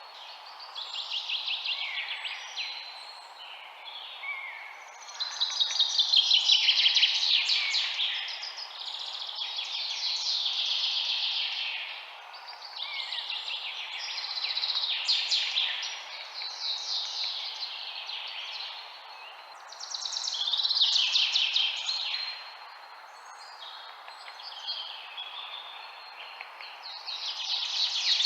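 Songbirds singing: phrases of fast trilled notes, a few seconds long, repeating every few seconds and swelling and fading, over a steady background hiss.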